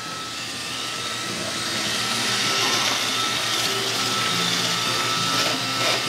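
Roomba robot vacuum running: a steady whir of its motor and brushes with a thin steady whine, growing louder over the first couple of seconds and then holding steady.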